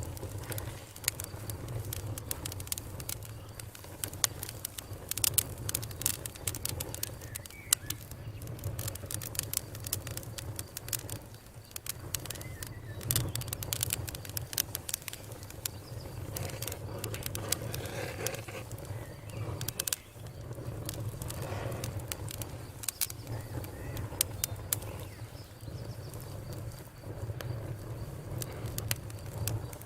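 Wood campfire crackling, with frequent sharp pops and snaps over a steady low rumble of the flames.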